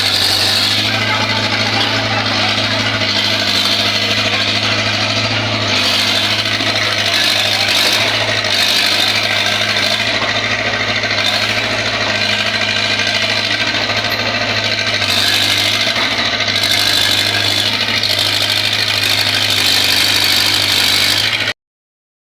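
Steady engine running with a constant low hum, cutting out abruptly for a moment near the end.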